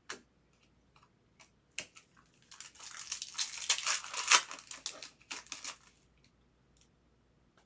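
Foil trading-card pack wrapper crinkling as it is torn open and handled: a few sharp clicks, then a few seconds of dense crinkling that dies down to scattered ticks near the end.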